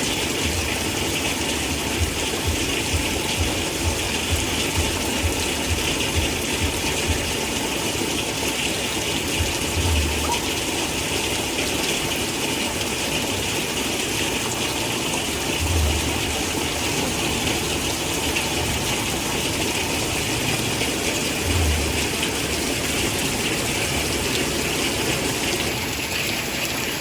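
Heavy rain falling steadily: a dense, even hiss, with a few brief low thuds about every six seconds.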